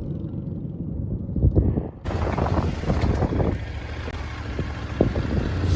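Wind buffeting the phone microphone, an uneven low rumble. The sound changes abruptly about two seconds in.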